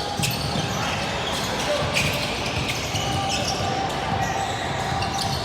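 Indoor basketball game: a ball bouncing on a hardwood court with sharp knocks, over a steady babble of spectators' and players' voices echoing in a gym.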